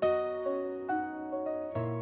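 Instrumental song intro: piano melody with sustained chords.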